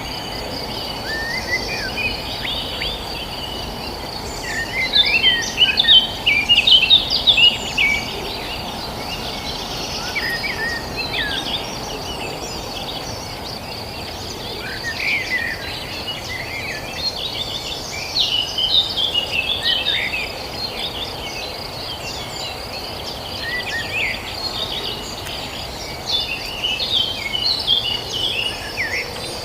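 Songbirds chirping and trilling in scattered clusters of quick phrases over a continuous high, even insect trill like a cricket chorus. The busiest, loudest burst of birdsong comes about five seconds in, with more clusters through the rest.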